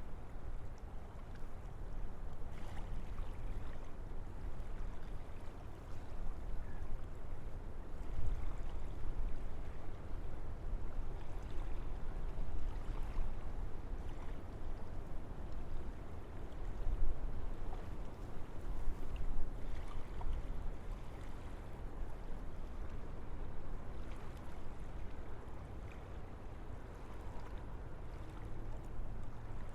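Wind gusting through forest trees: a continuous rushing noise over a deep low rumble, swelling in gusts about a third of the way in and again past the middle, then easing.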